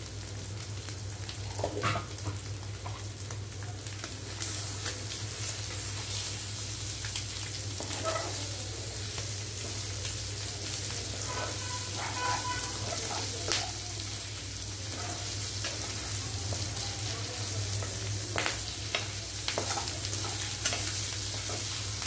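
Capsicum and egg sizzling in oil in a frying pan, with a steel spoon scraping and clicking against the pan as the mixture is stirred and broken up. A steady low hum runs beneath.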